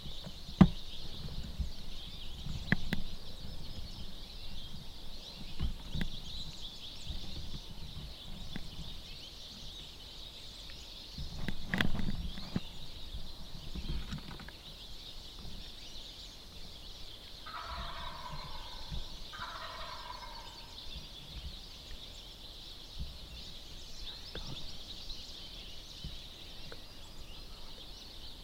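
Wild turkey gobbler gobbling: two rattling calls in quick succession about two-thirds of the way through, over a steady high hiss. A few sharp knocks and rustles, the loudest just after the start and another cluster around 12 seconds in.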